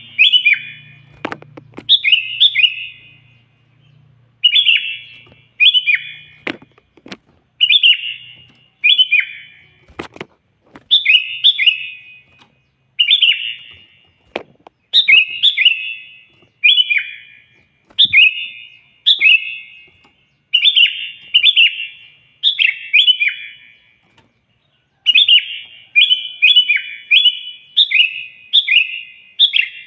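Sooty-headed bulbul singing loudly: short bubbly phrases of two or three quick notes, each falling away at the end, repeated every second or two, coming faster near the end.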